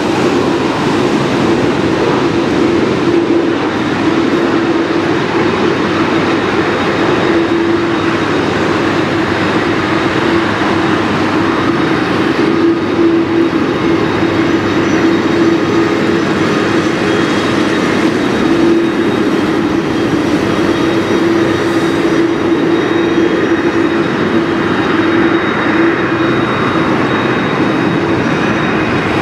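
Jet engines of a Lufthansa Boeing 747-8 running steadily at idle, a loud even noise with a held low hum and no rise in power.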